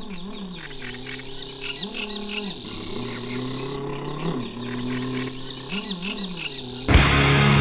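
Insects trilling in a steady high tone, with a lower hum that repeatedly rises and falls in pitch. A loud, noisy sound cuts in near the end.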